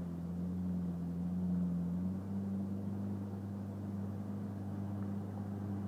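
Personal watercraft (jet ski) engine running steadily while towing an inflatable donut tube, its pitch stepping up a little about two seconds in.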